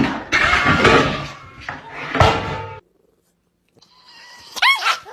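Clatter and thumps with a couple of sharp knocks, which stop abruptly; near the end, a short, high meow from a cat that rises and falls in pitch.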